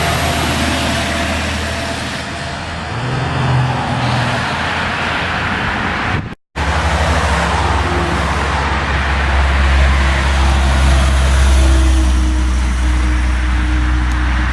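Road traffic with trucks driving by: steady tyre and engine noise, cut by a brief dropout about six seconds in, after which a heavy truck's deep engine drone builds and then eases.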